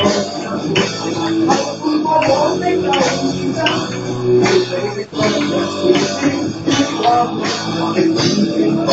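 Band music with guitar and a drum kit keeping a steady beat, with a brief drop about five seconds in.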